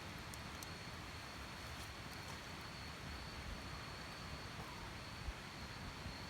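Quiet outdoor ambience with a continuous high-pitched insect drone, like crickets, over a steady background hiss, and a few faint sharp clicks in the first couple of seconds.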